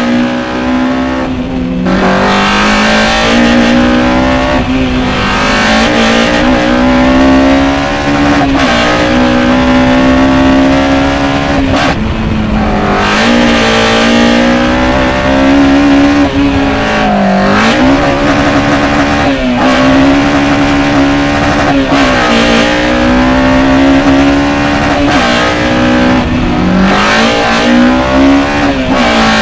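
Built Honda K20 four-cylinder on individual throttle bodies in an Integra Type R DC2, heard from inside the cabin under hard acceleration: it revs up through the gears, its pitch climbing and then dropping sharply at each change, about eight times. Loud intake noise takes over from the exhaust when it is pushed.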